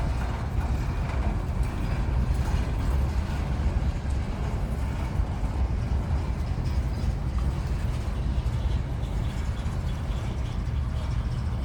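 Freight train's tank cars rolling past in a steady low rumble, with a mechanical rattle of wheels and couplers on the rails.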